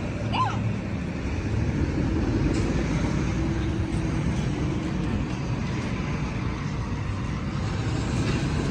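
Steady low rumble of motor vehicle noise, with no distinct events.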